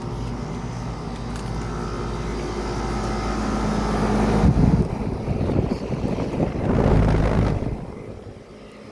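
Air-conditioning condensing unit running in cool mode, just kicked on: a steady low compressor-and-fan hum, nice and quiet. About halfway through, two loud rushes of noise cover it, and the sound falls off near the end.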